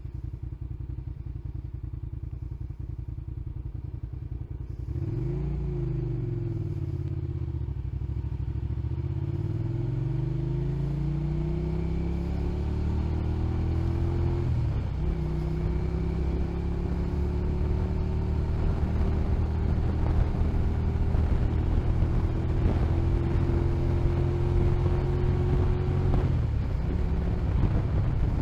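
Motorcycle engine ticking over steadily, then pulling away about five seconds in and accelerating through the gears, its pitch climbing and dropping at each shift, with another shift near the end.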